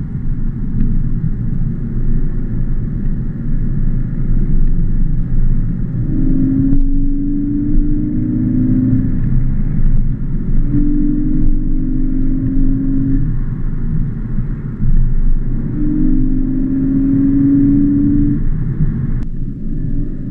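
Ford Focus ST Mk3's engine heard from inside the cabin while driving, with a K&N 57S intake kit fitted and the Sound Symposer switched on. A steady low rumble, with a humming drone that rises in three times, each lasting two to three seconds.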